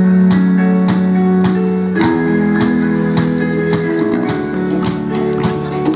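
Live band playing an instrumental passage: guitar chords held over an evenly repeating beat, with no singing.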